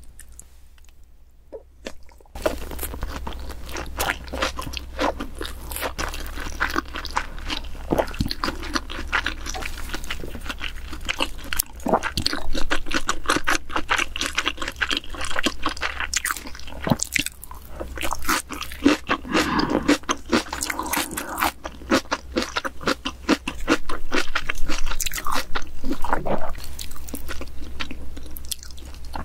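Close-miked eating sounds: chewing salmon and rice, with crunchy bites and many small wet clicks of the mouth. The chewing starts about two seconds in after a short quiet.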